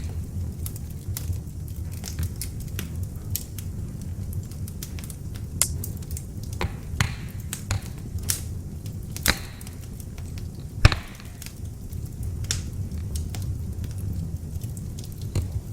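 Beech-wood log fire in an open fireplace crackling: a steady low rumble of burning with scattered sharp pops and snaps, the loudest pop about eleven seconds in.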